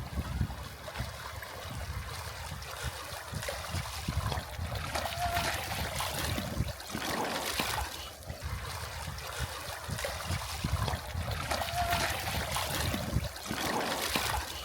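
River water flowing steadily, with two brief faint chirps.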